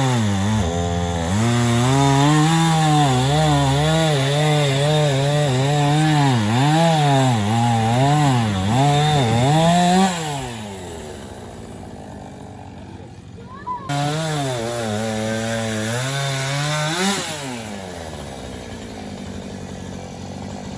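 Chainsaw engine running at high revs, its pitch repeatedly dipping and recovering as it cuts, for about ten seconds. It then drops back to a quieter, lower running, revs up again for a few seconds, and falls back once more.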